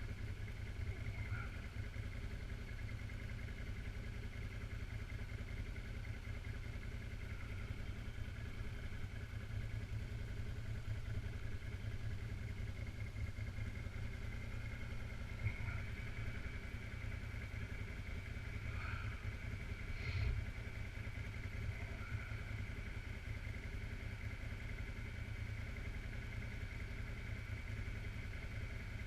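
Suzuki KingQuad 750 AXI ATV engine running at a low, steady speed, with a couple of short knocks about halfway through.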